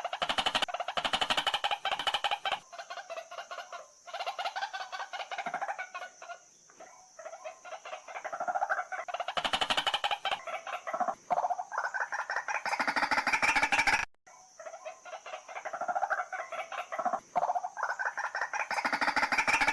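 White-breasted waterhen calling: bouts of rapid repeated notes, with short breaks about four, seven and fourteen seconds in.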